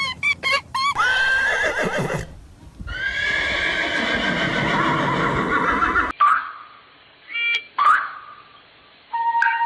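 Horse whinnying: a short whinny about a second in, then a longer, wavering one lasting about three seconds. A run of quick, clipped calls comes just before, and a few brief cries follow.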